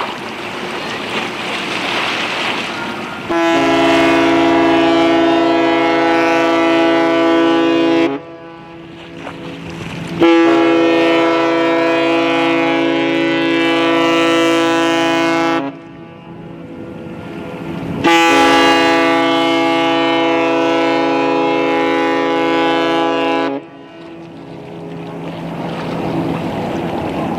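The Pacific Venus cruise ship's horn sounds three long, steady blasts of about five seconds each, a departure signal as the ship leaves port.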